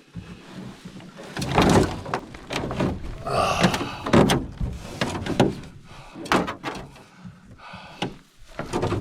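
Irregular thumps, knocks and scrapes of a canoe and packs being handled and hoisted for a portage.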